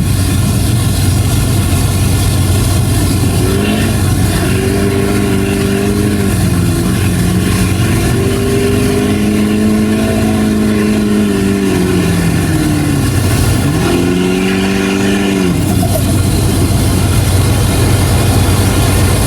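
Diesel pickup truck engine revving hard under load during a truck pull. Its note climbs about four seconds in, dips and climbs again, sags, rises once more, then drops away about fifteen seconds in, over a steady low drone.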